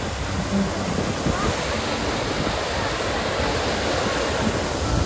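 Strong wind buffeting the microphone: a steady rushing noise with irregular low rumbling gusts.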